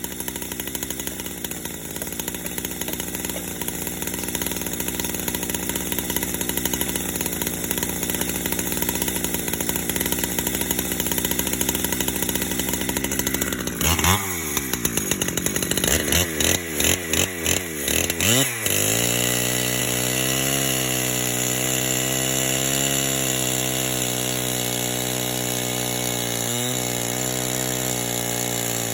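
Two-stroke chainsaw fitted to a chainsaw mill, running. About halfway through its pitch swoops down and up several times with brief drop-outs, then it settles into a steady, higher-pitched run, dipping briefly twice near the end.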